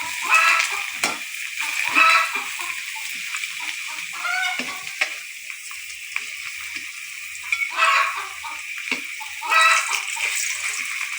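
Chickens clucking and calling about five times, spaced a couple of seconds apart, over a steady hiss from the cooking.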